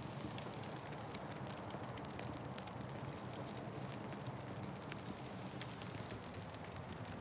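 Fireplace fire burning with a steady hiss and frequent small, sharp crackles and pops.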